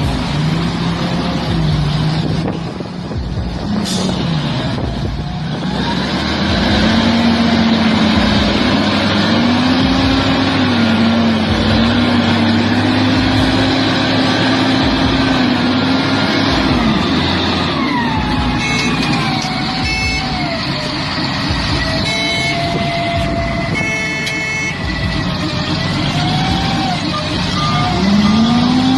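Heavy truck engine running and revving, its pitch rising and falling repeatedly. A higher whine glides up and down over it in the second half.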